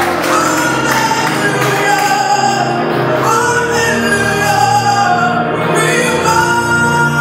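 Live gospel worship music: singers hold long notes that slide between pitches over a steady band accompaniment.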